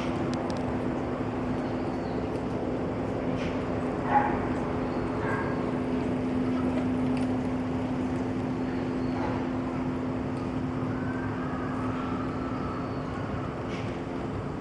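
Steady low mechanical hum, like a distant engine, with one short, loud yelp-like animal call about four seconds in.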